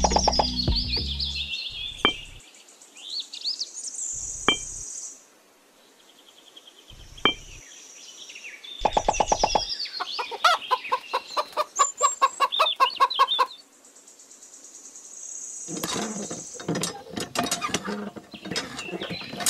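Chicken and small-bird calls: chirps, short gliding calls and a long rapid run of clucking in the middle, with a few sharp clicks between them. A quick run of clicks follows near the end.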